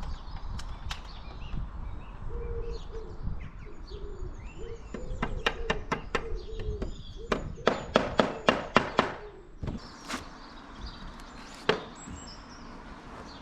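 Birds chirping, with a pigeon cooing low for a few seconds. Partway through comes a quick run of about ten sharp knocks over some four seconds, then two single knocks, from work on tiles on the roof.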